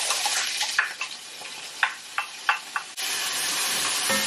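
Sliced leeks sizzling as they hit a hot enamelled cast-iron pan, with a spatula scraping them out of the bowl and stirring. A few sharp taps come in the middle, then the sizzle runs steady and louder from about three seconds in.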